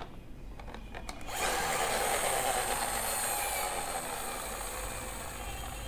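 Toy bus's friction motor whirring as its wheels spin. It starts suddenly and slowly dies away as the wheels run down.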